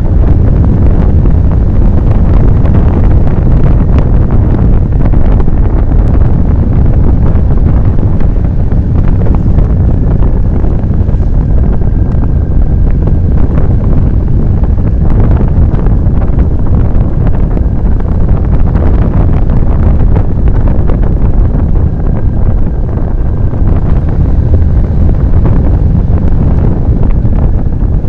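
Loud, steady wind noise buffeting the microphone of a camera on a moving motorcycle.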